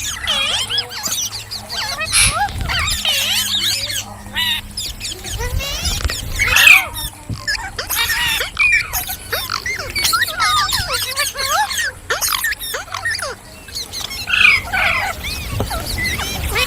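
Green parrots chirping and squeaking: a steady stream of short calls that swoop up and down in pitch, many of them overlapping.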